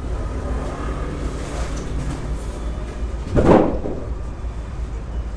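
Steady low rumble of background vehicle traffic, with one brief, louder rush of noise about three and a half seconds in.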